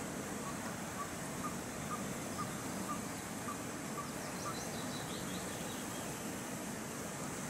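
Birds calling over a steady outdoor hiss: a string of short evenly spaced notes, about two a second, through the first half, then a brief high twittering phrase a little past the middle.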